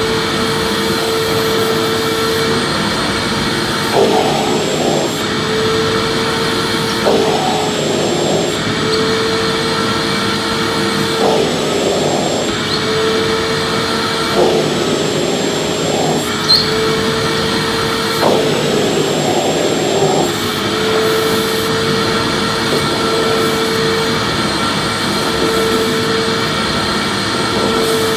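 Electric vacuum cleaner running steadily: a constant motor whine over a rushing airflow hiss, wavering briefly every few seconds.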